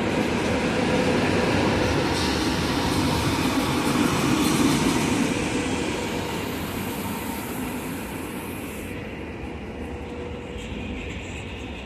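SNCF inOui double-deck TGV high-speed train moving slowly through the station: a steady rumble of wheels and running gear with a faint even hum, getting quieter after about six seconds.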